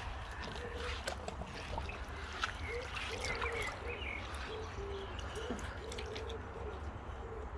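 Water splashing and trickling in a paddling pool as dogs move through it after floating toys, with a steady run of short, low hooting notes repeating throughout.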